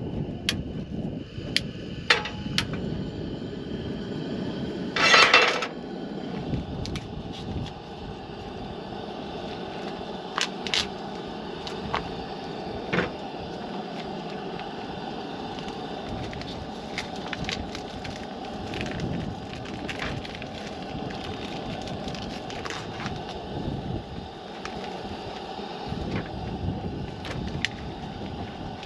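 Campfire burning with a steady hiss and scattered sharp crackles and pops of burning wood, with one louder burst about five seconds in.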